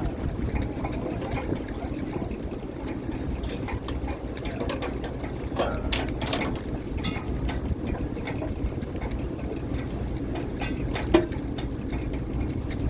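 A fishing boat's engine running steadily, with water noise, a few clatters about six seconds in and a sharp knock near the end.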